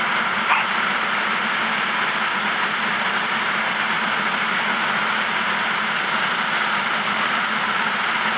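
Flash-flood waterfall pouring over a sandstone canyon pour-off and churning in the pool below: a steady, unbroken rush of water.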